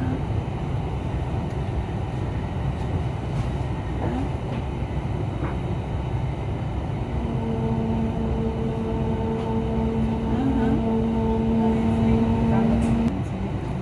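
Double-decker InterCity train running, heard from inside as it pulls into a station: a steady low rumble, joined about halfway by a steady humming whine that cuts off suddenly near the end.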